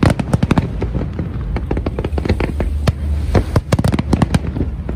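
Aerial fireworks display: a dense barrage of rapid, overlapping bangs and crackles over a continuous low rumble.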